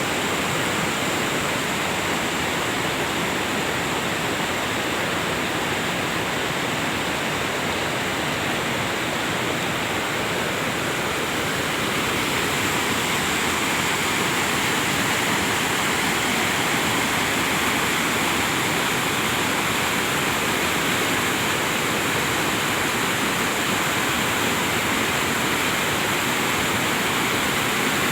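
Lahar flood from Semeru volcano: a rain-triggered torrent of muddy volcanic debris flow rushing down the river channel, a steady loud rush that grows a little louder about twelve seconds in.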